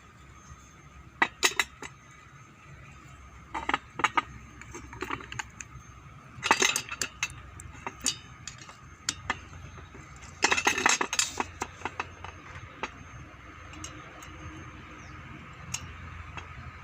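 Metal tools and brush-cutter engine parts clinking and clattering by hand during engine repair, in scattered bursts with the longest clatters about six and eleven seconds in.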